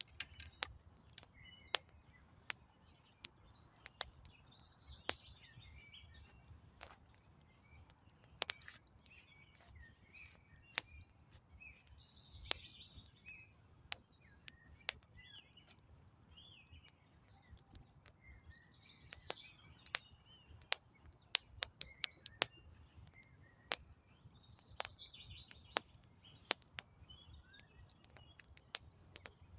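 Wood campfire crackling with irregular sharp pops and snaps, while small birds chirp and sing steadily behind it.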